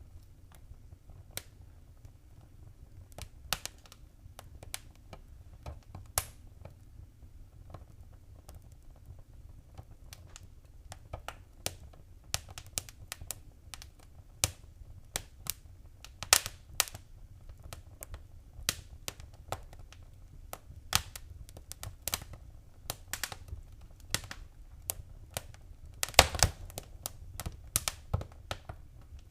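Wood fire crackling in a fireplace: irregular sharp pops and snaps over a low steady rumble of the flames, the pops coming more often as it goes on, with a quick cluster of louder snaps near the end.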